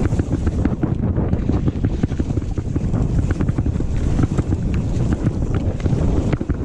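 Wind buffeting the microphone of a downhill mountain bike rider's camera, with a rapid, uneven clatter of knocks and rattles from the bike on rough trail.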